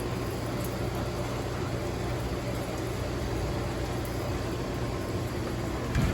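High storm wind blowing steadily, with wind rumbling on the microphone; a brief knock right at the end.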